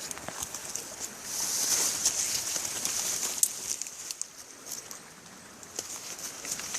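Footsteps and rustling on a forest trail over a steady outdoor hiss. The hiss swells about a second in and eases off after about three and a half seconds.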